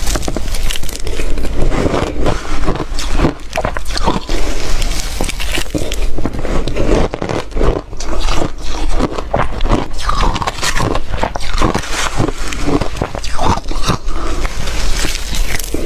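Ice being bitten and chewed close to the microphone: a dense, unbroken run of sharp cracks and crunches.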